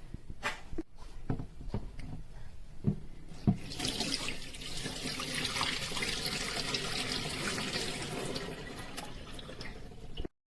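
A few knocks and clicks, then water running from a tap starting about four seconds in as a steady hiss, cutting off abruptly near the end.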